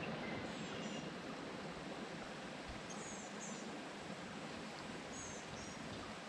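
Creek water running steadily over rock, with a small bird's high, thin two-note chirp repeated three times, a couple of seconds apart.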